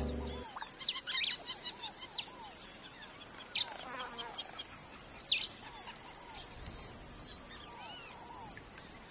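Several forest birds chirping and calling: many short arching calls and a few sharp high chirps, over a steady high-pitched drone.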